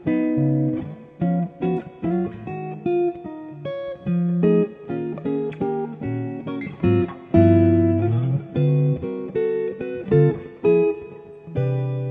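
Solo guitar improvisation: a flowing run of plucked single notes and short phrases over occasional low bass notes, each note starting sharply and dying away.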